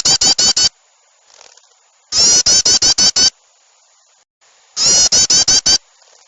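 Loud bird-lure recording of small songbirds' harsh chattering calls, with trucukan (yellow-vented bulbul) and burcil calls mixed together. It comes as repeated bursts of about seven quick notes each, one burst ending just after the start and two more following about every two and a half seconds.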